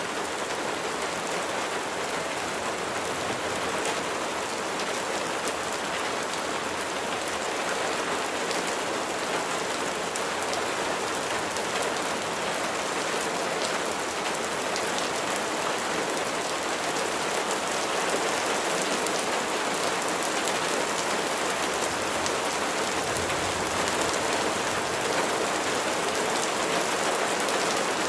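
Steady rain falling on a surface, an even hiss of many fine drop ticks.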